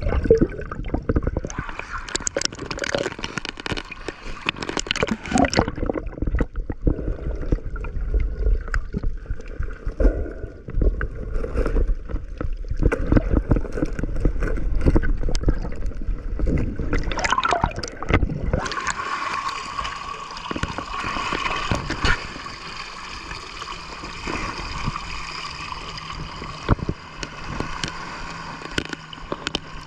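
Water sloshing and gurgling around the microphone, with scattered clicks. About two-thirds of the way in it gives way to a steady motor hum, whose pitch shifts slightly near the end.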